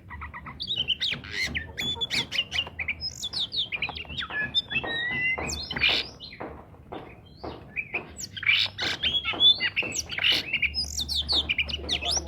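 Oriental magpie-robin (kacer) singing a fast, varied run of whistled notes, thinning out briefly around the middle before picking up again.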